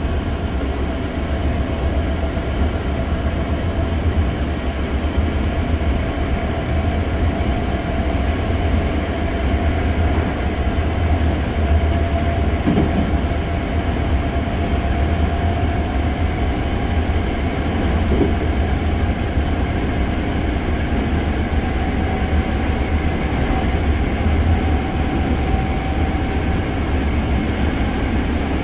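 Hankyu 6300 series electric train heard from inside the passenger car while running at speed: a steady deep rumble of wheels and running gear on the rails, with a thin whine that rises slightly in pitch over the stretch.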